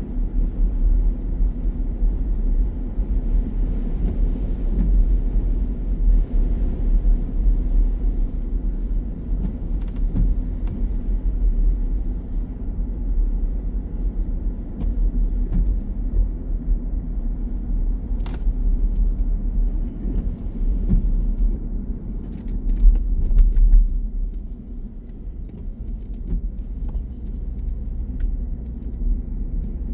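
Steady low road and engine rumble heard inside a moving car's cabin, with a few faint clicks and one sharper click partway through.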